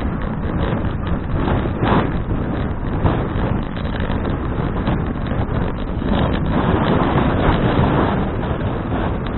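Wind buffeting the microphone of a bicycle-mounted action camera while riding: a loud, rumbling rush that swells and dips.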